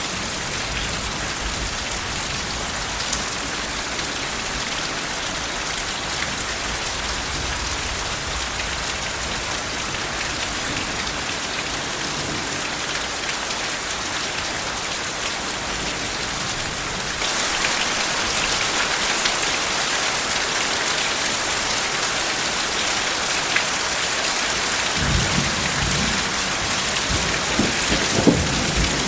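Steady rain falling on surfaces, a continuous hiss that becomes heavier a little over halfway through. Soft, low thunder rumbles under the rain at the start and again near the end.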